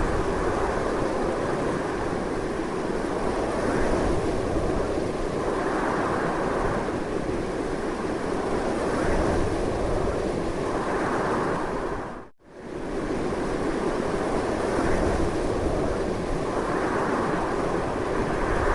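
Strong wind blowing steadily in slow swells. About twelve seconds in it briefly fades to silence and comes straight back.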